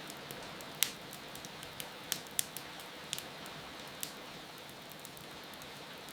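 Steady rain hiss with the crackle of a fireplace fire over it: irregular sharp pops, the loudest about a second in and two more a little past two seconds.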